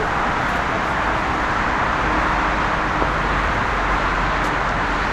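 Steady jet engine noise from an airliner, an even rushing sound with no clear pitch.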